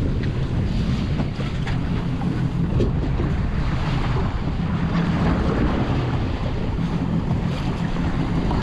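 Fishing boat's engine running steadily at trolling speed, with wind buffeting the microphone and water washing against the hull.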